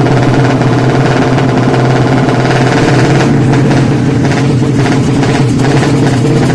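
Race-tuned Yamaha Jupiter single-cylinder four-stroke motorcycle engine, bored out to 155 cc, running loudly at a steady speed, with a pulsing texture in the second half.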